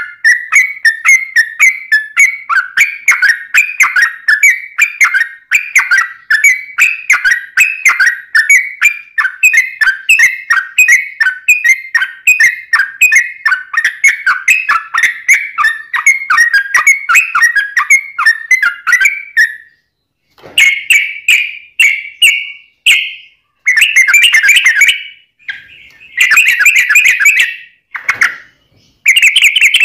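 Yellow-vented bulbul (trucuk) singing a long unbroken string of rapid, bubbling notes for about twenty seconds. After a short pause it breaks into shorter bursts of song.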